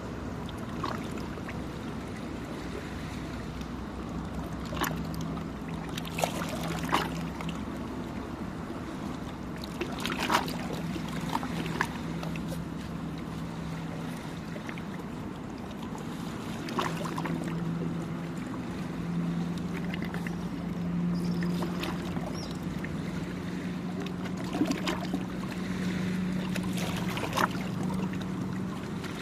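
An engine drones steadily at sea, its pitch creeping up a little in the second half. Small waves slap and splash against the shore now and then.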